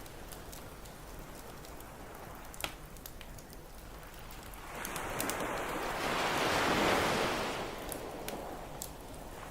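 Ocean surf breaking on a beach, one wave swelling up past the middle and washing back out, with scattered campfire crackles and pops, one sharper pop a few seconds in.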